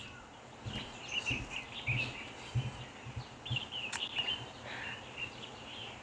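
Small birds chirping on and off, short high calls, with a few soft low thumps in the first half and a single sharp click about four seconds in.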